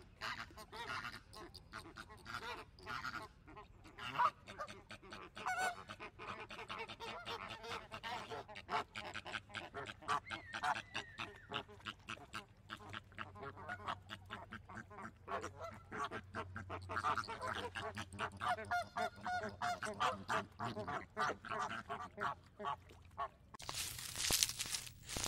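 A flock of flamingos honking and gabbling, many short goose-like calls overlapping in a continuous chatter. Near the end it gives way to a louder, noisy sound.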